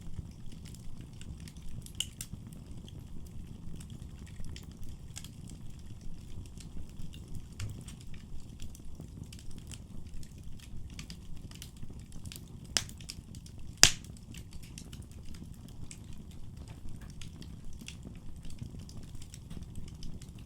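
Wood fire burning in a fireplace: a low steady rumble of flames with scattered crackles and pops, one much louder sharp pop about two-thirds of the way through.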